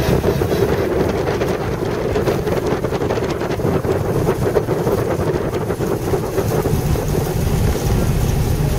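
Mk1 Mini Cooper S's A-series four-cylinder engine running at low revs while the car rolls slowly, heard from inside the cabin as a steady, noisy rumble.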